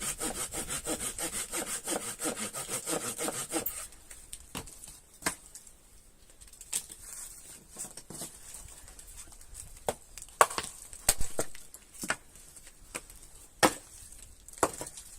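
Hand saw cutting through wood in quick, even back-and-forth strokes, stopping about four seconds in. After that come scattered sharp knocks and clicks.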